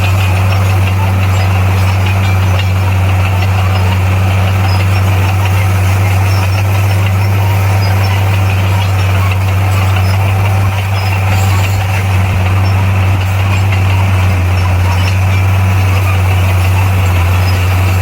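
Bulldozer's heavy diesel engine running steadily at constant speed, a deep even drone with no revving.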